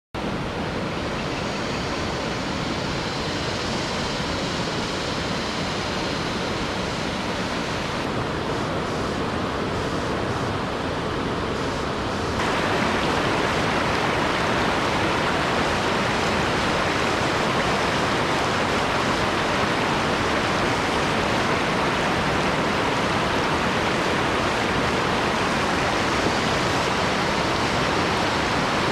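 Waterfall rushing in a steady, dense roar of falling water. About twelve seconds in, the sound steps up in level and gets brighter, then holds steady.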